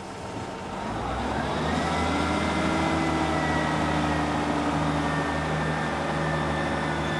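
A train getting under way: its drive note rises in pitch and loudness about a second in and then holds steady over a low rumble.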